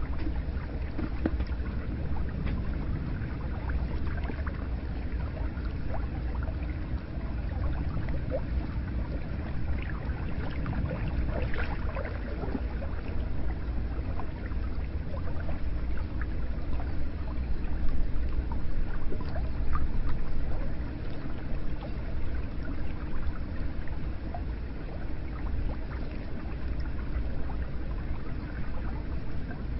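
Hot spring water running steadily into a bath, a continuous low wash with small trickles and splashes scattered through it.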